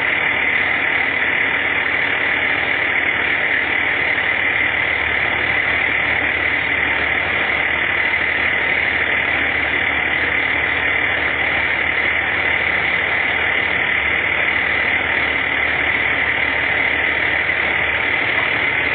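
A vehicle engine running steadily at idle, an unbroken, even noise with no change in pitch or level.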